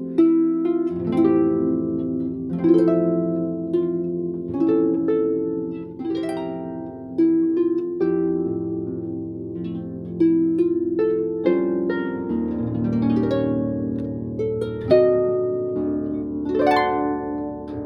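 Solo harp music: plucked chords and melody notes left to ring, with a quick upward run of notes near the end.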